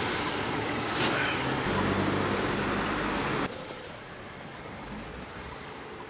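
Street traffic: a loud rush of a motor vehicle passing close by, with a low engine hum, that cuts off suddenly about three and a half seconds in, leaving quieter steady street noise.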